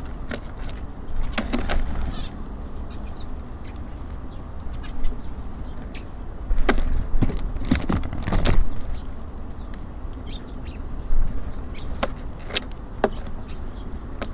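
Birds at a wooden feeder: scattered sharp taps and knocks as they land, hop and peck at the seed, in irregular clusters, over a steady low rumble.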